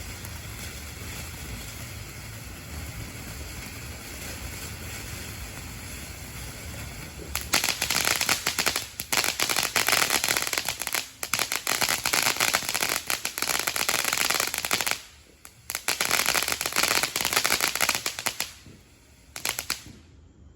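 Raging Zombies consumer firework going off. After several seconds of lower, steady noise, dense, rapid crackling starts about seven seconds in, pauses briefly, then comes back and dies away near the end.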